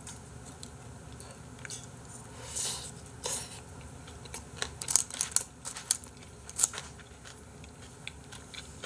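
A person chewing food close to the microphone, quiet at first, then a run of sharp crunching clicks in the middle before it settles again.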